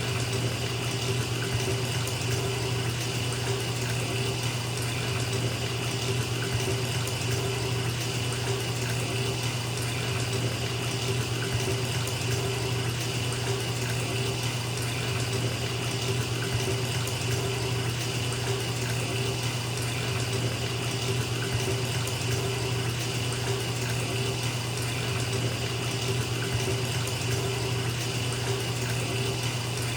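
Bathtub faucet running, with water pouring into the filling tub in a steady, unbroken rush and a low steady hum under it.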